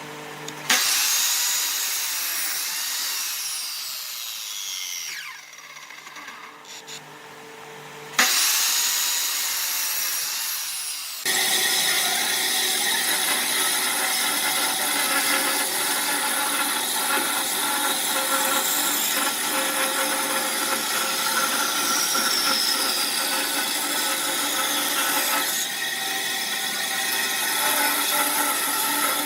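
Woodworking power tools cutting and shaping wood, in edited segments that start and stop abruptly: a burst about a second in, a quieter stretch, another burst about eight seconds in, then a steady run of dense cutting noise from about eleven seconds on.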